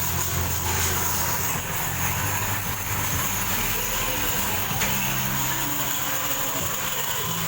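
Steady machine hum with a constant high hiss above it; the low hum shifts in pitch a few times.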